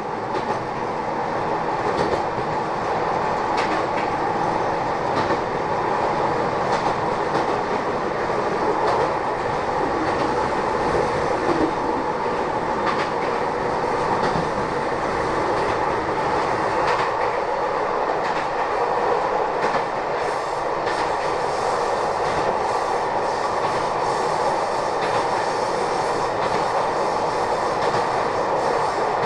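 Kobe Electric Railway commuter train heard from inside the passenger car while running between stations: a steady rumble of wheels and motors with scattered clacks from the rail joints, getting louder over the first couple of seconds.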